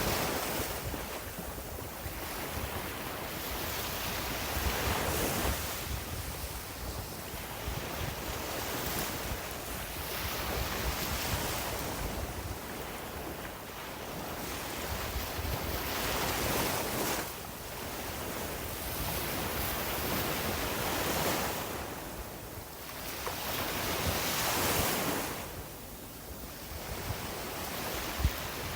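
Sea waves washing onto a beach, swelling and falling back every few seconds, with wind buffeting the microphone.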